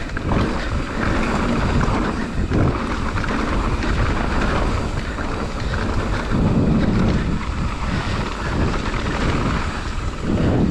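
Wind buffeting the microphone of a mountain biker's camera on a fast downhill trail run, with the bike rattling and knocking over rough ground, sharper knocks near the start, a couple of seconds in and near the end.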